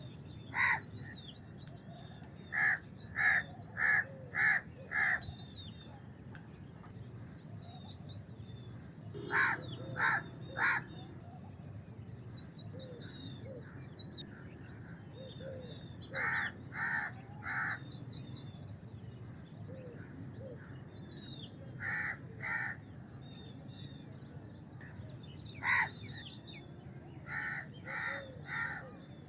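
House crows cawing in runs of one to five caws every few seconds, with high twittering of smaller birds between the runs over a steady low background noise.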